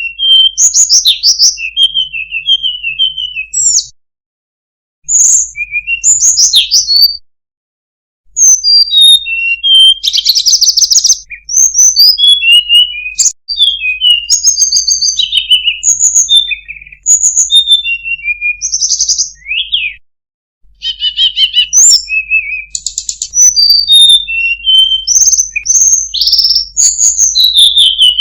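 Tledekan gunung (Sunda robin) singing: long phrases of quick, varied chirps, trills and whistled notes, separated by brief pauses.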